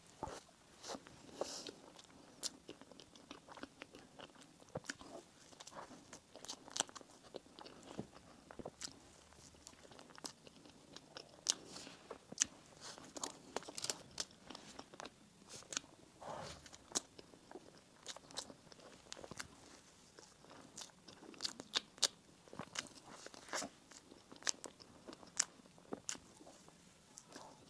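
Close-miked mouth sounds of eating bakery bread and pastry: biting and chewing, with many short, crisp clicks and smacks at irregular intervals.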